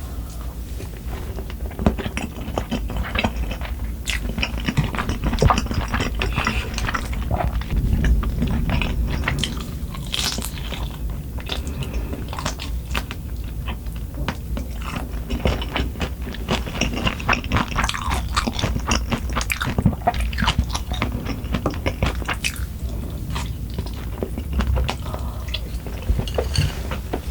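A person chewing and biting food, with many crisp crunching bites and wet mouth sounds picked up close to the microphone.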